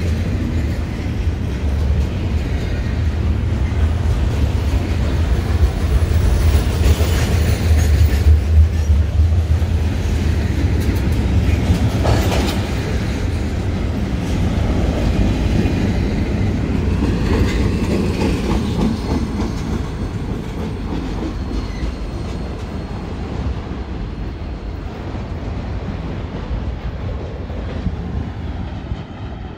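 Double-stack container freight train rolling past, its wheels clacking over the rails with a deep rumble. The sound fades gradually over the last several seconds as the tail of the train moves away.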